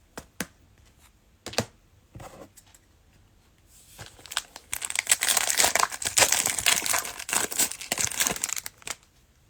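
Plastic cellophane wrapper of a trading-card pack crinkling as it is handled and torn open: a few light clicks at first, then about five seconds of dense crinkling.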